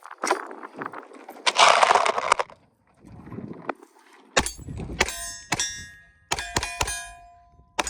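Pistol shots striking steel targets, each hit ringing with a metallic ping: a few spaced shots, then a quick string of about five, the last ring fading out. A second-long rush of noise comes before the shooting.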